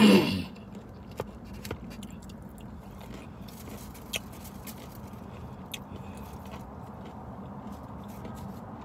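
Faint chewing and small clicks of eating fried shrimp, over the steady low hum of a car interior. A short falling hum of the voice comes at the very start.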